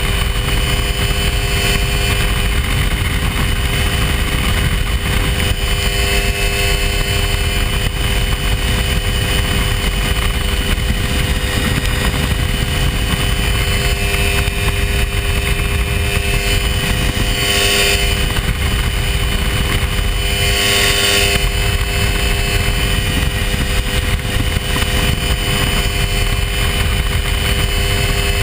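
Hy-Tek Hurricane ultralight aircraft's engine and propeller running steadily at an even pitch. A brief rush of noise comes twice, about two-thirds of the way through.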